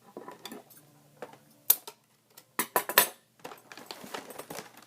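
Plastic clicking and clattering from a toy garbage truck and its packaging being handled and pulled open, with a few sharp, louder clicks around the middle.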